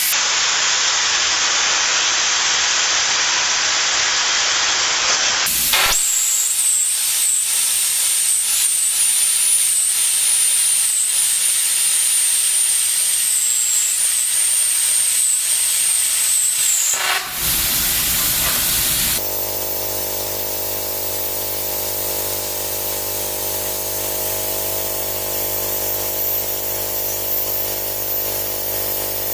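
Plasma cutter cutting steel plate: a loud, steady hiss of the cutting arc and air, in several abruptly joined stretches. One stretch carries a high wavering whine, and the last has a steady hum under the hiss.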